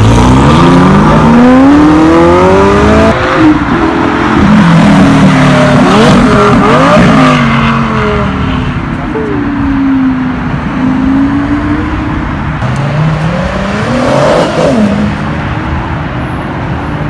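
A car engine revving loudly: one long climb in pitch over the first three seconds, then a string of quick revs up and down, a slower dip and rise, and one more rev near the end.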